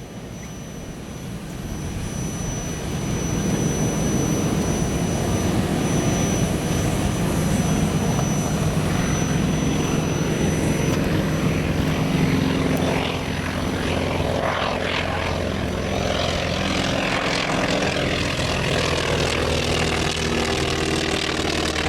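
North American T-28 Trojan's nine-cylinder radial engine droning through a slow, low pass with gear, flaps and tail hook down. It grows louder over the first three seconds and then stays loud, with a thin high whine over the first half. Its split exhaust, one manifold for five cylinders and one for four, gives the Trojan its peculiar sound.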